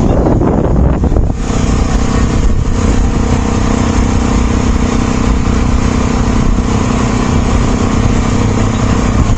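A motor vehicle's engine running at a steady speed with a low, even hum, with a rush of wind noise in the first second or so.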